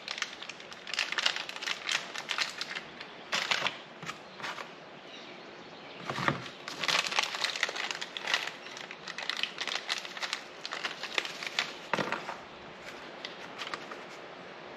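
A set of Allen wrenches being handled and sorted through to pick the right size: irregular clicking, rattling and crinkling handling noises, with a few louder clatters.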